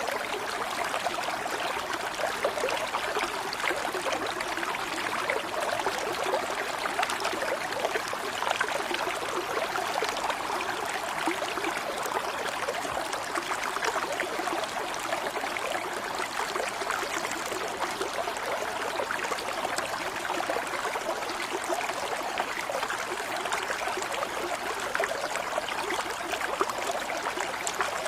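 Stream of running water babbling and trickling steadily, without pause.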